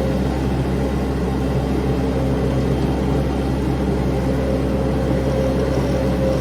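Engine running steadily at an even speed, a constant hum with no revving or change.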